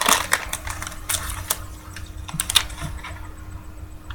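Trading cards and their packaging being handled: an irregular run of light clicks and rustles, busiest in the first second and a half, with a few sharper clicks a little past halfway.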